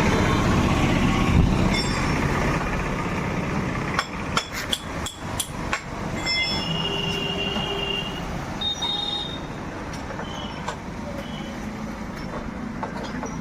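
A steady low rumble, then a quick run of sharp metallic clinks a few seconds in, followed by brief high ringing tones.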